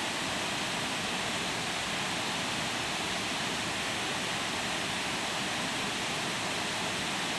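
Heavy storm rain pouring down, a steady, unbroken hiss.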